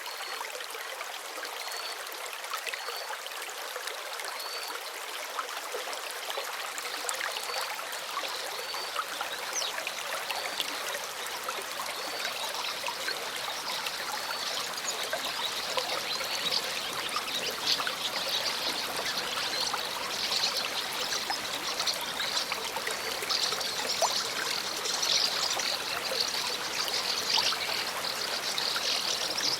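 Water of a stream running and trickling steadily, growing gradually louder and fuller. A short high chirp repeats about once a second through roughly the first ten seconds.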